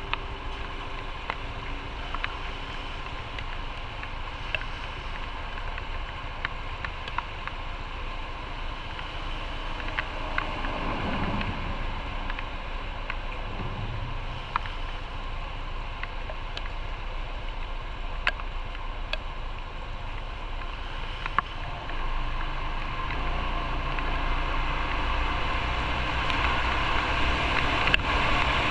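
Motorcycle running at road speed, its engine rumble mixed with steady wind rush over the microphone, with a few faint ticks. The noise grows louder about two-thirds of the way through, as if speed picks up.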